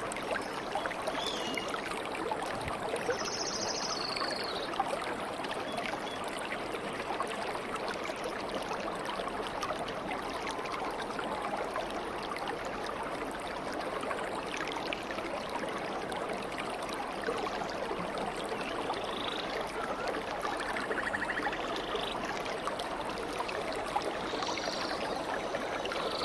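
Stream water running steadily, with a few faint bird calls now and then.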